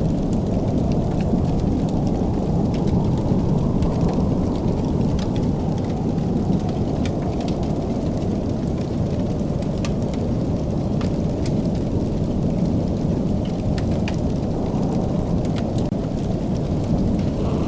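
Wood fire crackling with scattered sharp pops and snaps over a steady low rumble.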